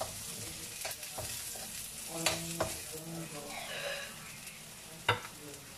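Chopped onion and garlic sizzling in hot oil in a metal wok. A metal utensil clinks and scrapes against the wok a few times as they are stirred, with the sharpest knock near the end.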